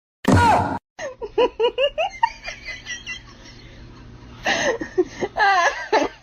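Laughter: a quick string of short rising-and-falling bursts, easing off midway and picking up again near the end.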